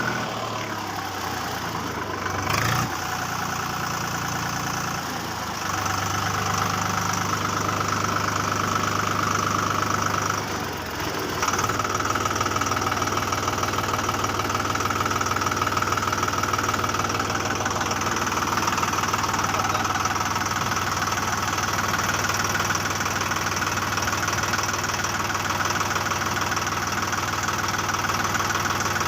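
Small motor or engine running steadily for a toy-sized tractor, with a brief drop and change in its note about eleven seconds in.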